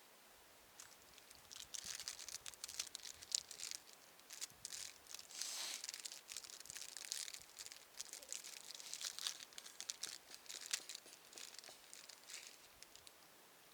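Crinkling and rustling of packaging being handled, a dense run of small irregular crackles that starts about a second in and goes on until near the end.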